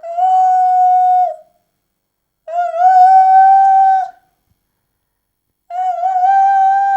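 A person making a weird high-pitched howl-like sound with the voice, three long held notes of about a second and a half each, each sliding up slightly at the start.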